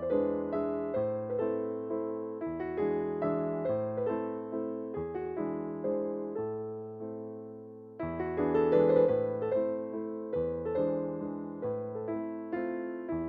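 Gentle background piano music, notes struck in a steady, even rhythm, with a new phrase coming in louder about eight seconds in.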